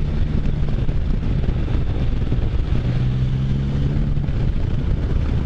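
Can-Am Spyder F3's 1330 cc inline three-cylinder engine running on the road under steady wind rush. Its note fades about a second in and comes back strongly about three seconds in, as the throttle is eased and reopened through the turns.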